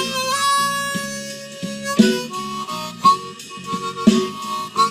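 Blues harmonica fill over a drum and bass backing track. One long held note lasts about two seconds, then a run of shorter notes follows.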